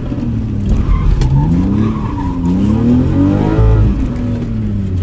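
Car engine heard from inside the cabin, revving up and dropping back several times as the car accelerates and brakes between cones on a competition stage. A brief tyre squeal about a second in.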